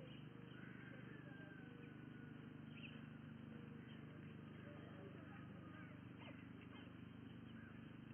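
Faint, scattered chirps and a thin gliding whistle of small birds over a steady low hum from the webcam's microphone.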